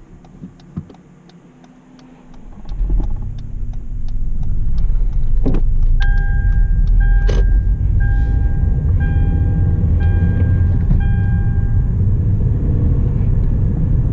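Hyundai Elantra with a manual gearbox pulling away and driving, heard from inside the cabin: a low engine and road rumble builds from about two and a half seconds in and then holds steady. In the middle, an electronic warning chime beeps six times, about once a second.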